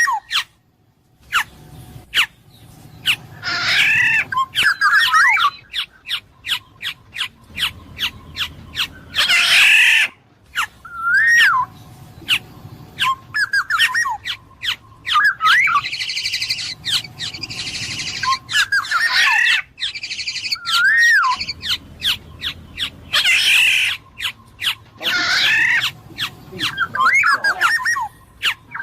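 Black-naped oriole (kepodang emas) calling: short fluting whistled phrases that rise and fall, repeated every second or two. Twice there is a loud harsh call, about ten seconds in and again near the end. Rapid sharp clicks run through the whole passage.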